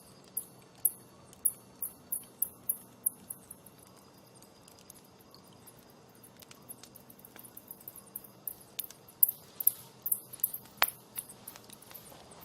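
Campfire crackling: irregular sharp snaps and pops from the burning wood, coming in clusters, with one louder pop near the end.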